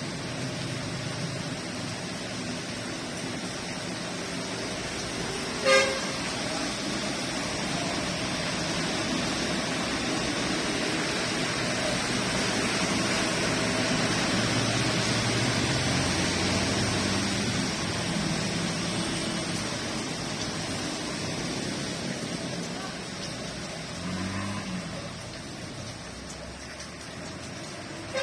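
Steady hiss of rain and traffic on a wet road, swelling through the middle and easing toward the end, with one short car horn toot about six seconds in.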